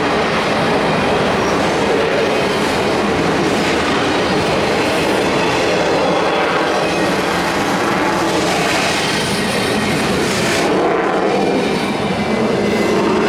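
A train passing on the rails, with steady wheel-on-rail noise.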